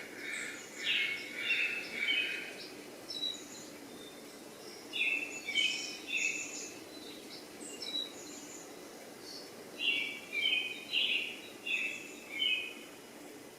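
A small bird singing short, high chirping phrases in three bouts about five seconds apart, over a faint steady background noise.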